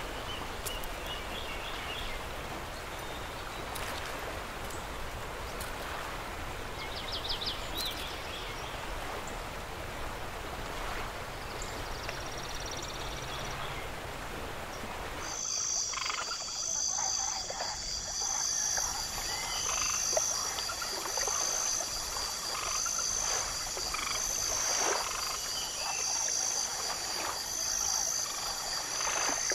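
Nature ambience: a hissy background with a few short chirps, then about halfway an abrupt switch to a steady, high-pitched chorus of calling animals, with a pulsing call repeating about every second and a half.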